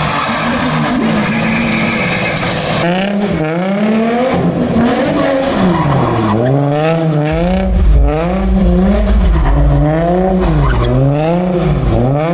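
A car engine revving hard and rhythmically, its pitch swinging up and down about once a second, over tyre squeal: a car sliding or spinning its wheels in a rev-slide display. A deep rumble joins partway through.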